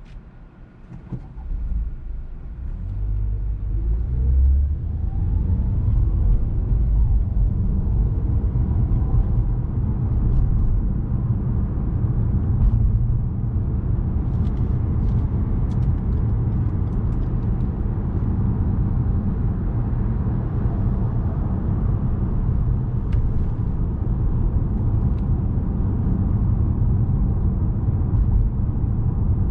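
Lexus RX 200t's 2.0-litre turbocharged four-cylinder (8AR-FTS) pulling away: the engine note rises over the first few seconds, then settles into a steady low rumble of engine and road noise while driving.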